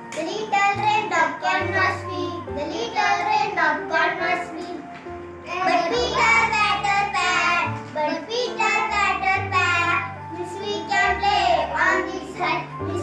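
A child singing a rhyming English poem over a backing music track, with a bass line that steps from note to note beneath the voice.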